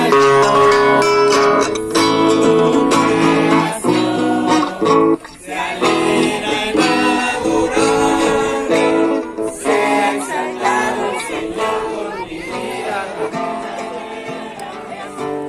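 Music: an acoustic guitar strummed, with singing, growing gradually quieter over the last few seconds.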